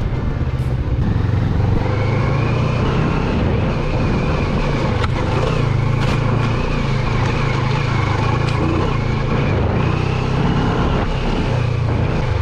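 Moto Morini X-Cape 650's parallel-twin engine running steadily as the bike rides a leaf-covered dirt trail, mixed with tyre and wind noise and a few sharp clicks.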